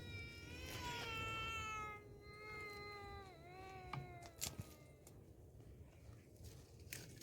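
An animal's long, drawn-out calls, twice, each sliding down in pitch.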